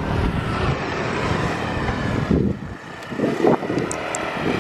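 Wind buffeting the microphone of a camera held out while cycling, a steady low rumble.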